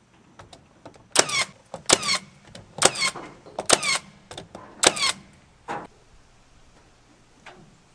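Nails being driven into wood: five loud sharp strikes about a second apart, each with a brief ring, then a couple of fainter knocks.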